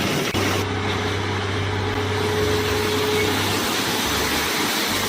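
Dump truck diesel engine running steadily with a low hum, cutting off abruptly near the end.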